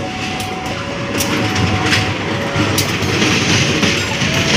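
KAI diesel-hauled passenger train pulling into the station: the locomotive passes close with its engine rumbling, then the coaches roll by, with a few sharp clicks from the wheels.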